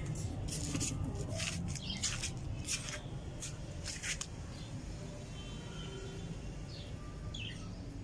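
A few faint, short bird chirps, mostly late, over a steady low rumble. In the first three seconds there are several brief rustling clicks.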